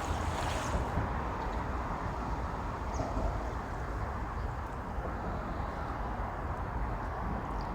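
Steady hum of road traffic crossing the bridge overhead, with two brief, faint bird chirps, one partway through and one near the end.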